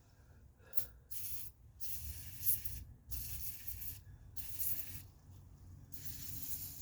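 Aerosol can of penetrating oil sprayed in a series of short hissing bursts, about six in all, soaking a seized suspension bolt.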